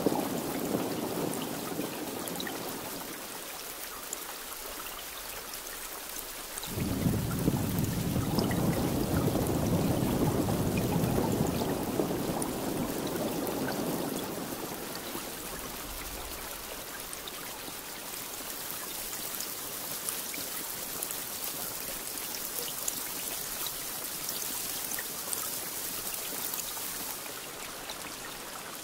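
Steady rain falling throughout. A low roll of thunder fades out in the first few seconds, and a louder roll starts suddenly about seven seconds in, rumbling for several seconds before dying away.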